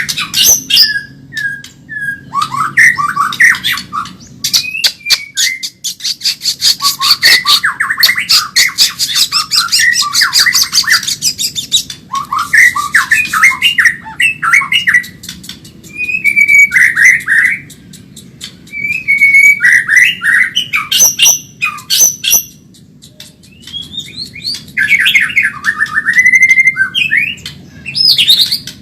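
White-rumped shama (Medan-type murai batu) singing fast: a run of short, varied whistled phrases broken by stretches of rapid dry clicking rattles.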